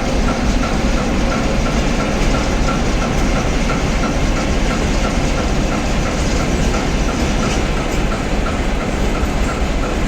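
Long-distance passenger train moving off, a steady rumble of wheels on the rails with a faint regular ticking, about three a second.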